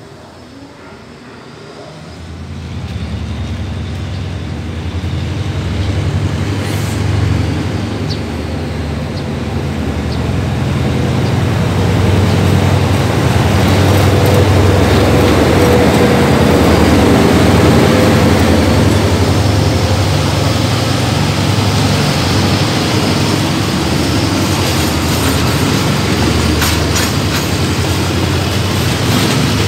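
Diesel locomotive engine running, growing louder as a passenger train comes up and passes. Near the end the coaches roll by with sharp clicks from the wheels over the rail joints.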